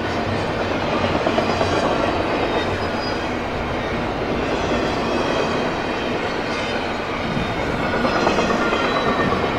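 CSX intermodal freight train passing at speed, its cars rolling by with a steady rush of noise and wheel clatter, a little louder about a second in and again near the end.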